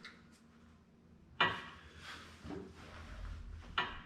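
Two sharp clacks about two and a half seconds apart, over a faint low hum.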